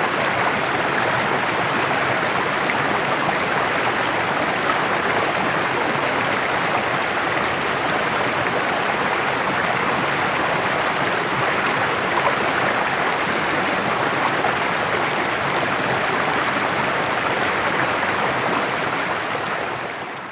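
Small rocky mountain creek babbling steadily over stones, fading out at the very end.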